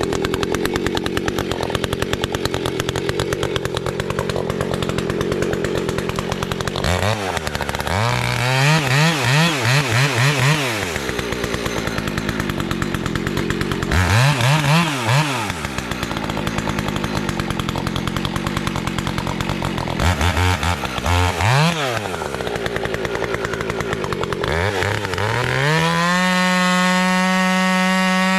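Two-stroke chainsaw running: the engine works steadily at first, then revs up and down in quick clusters of throttle blips several times, and near the end is held at a steady high rev.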